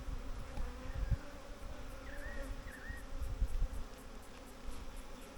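Honey bees buzzing around an open hive in a steady hum that wavers slightly in pitch as bees fly close. The colony is defensive and stirred up during the inspection. Low rumbles sound on the microphone underneath.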